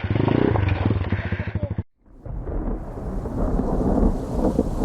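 A motorcycle engine running with a rapid even ticking. It cuts off abruptly about two seconds in. After a moment of silence, a low rumble of thunder and rain swells up and continues.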